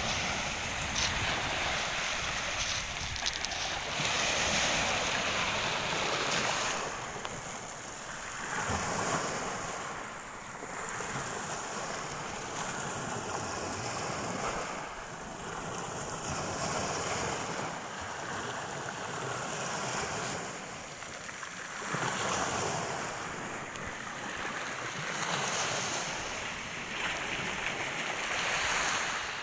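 Black Sea surf breaking and washing on the shore, swelling and fading about every five or six seconds, with wind buffeting the microphone.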